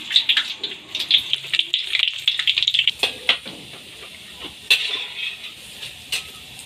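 Sausages sizzling and crackling as they fry in hot oil in an aluminium wok. A metal spatula and slotted ladle clink sharply against the wok a few times in the second half.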